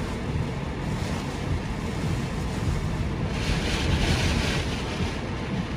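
Strong wind buffeting the microphone over a steady rushing roar of wind.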